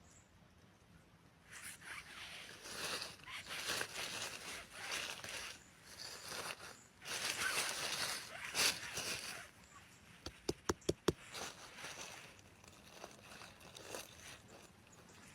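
Rustling and crunching in dry forest-floor litter during mushroom foraging, with a quick run of about five sharp clicks about ten seconds in, then fainter rustling.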